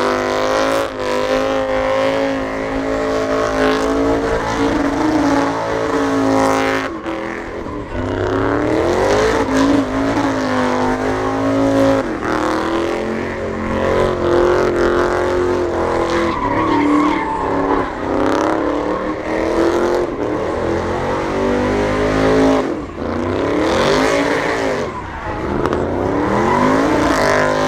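Pickup truck engine revved hard again and again during a burnout, its pitch climbing and dropping several times, with tires spinning and squealing on the pavement.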